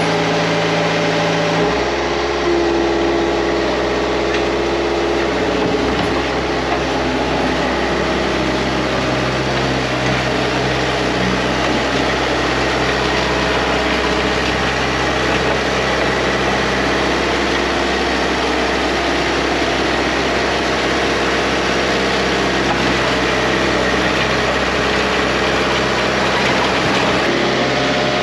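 An engine idling steadily, with slight shifts in its note a couple of times in the first few seconds.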